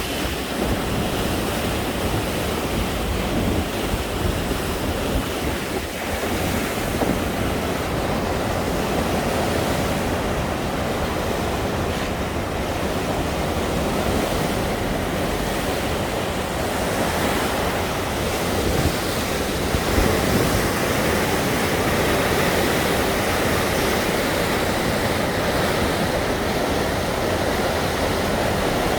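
Floodwater of a swollen river rushing steadily, with wind buffeting the microphone.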